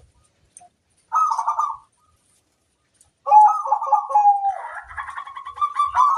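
Zebra doves (perkutut) cooing: one short burred coo about a second in, then from about three seconds in a longer rhythmic cooing phrase that other doves join in on, overlapping.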